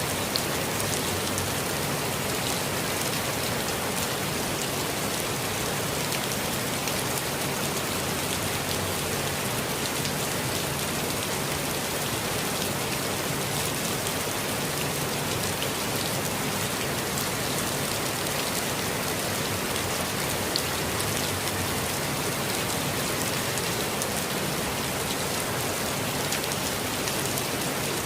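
Steady, even rain with individual drops ticking now and then.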